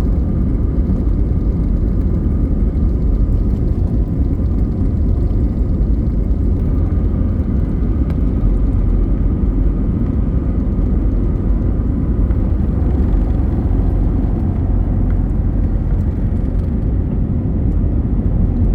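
Jet airliner cabin noise during takeoff: a steady, loud low rumble from the engines and the airframe, with a faint steady engine whine above it.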